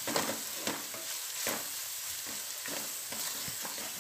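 Chopped onion, ginger-garlic paste and ground spices sizzling as they fry in oil in an aluminium pot, while a wooden spatula stirs and scrapes across the pot's bottom in repeated strokes.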